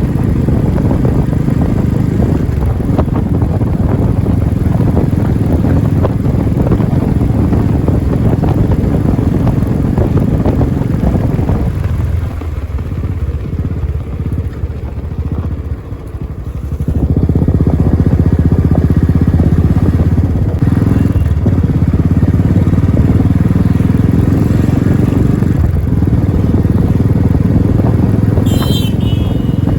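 Royal Enfield Classic 350's single-cylinder engine running with a steady low thump, dropping to a quieter stretch around the middle before coming back up to full level. A brief high chirp near the end.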